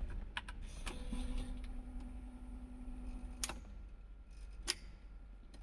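A few sharp clicks from the BMW E36's ignition key and switch as the key is turned, with a steady low hum for about two and a half seconds between them. The engine does not crank: the immobiliser will not accept the key, whose transponder chip has been lost.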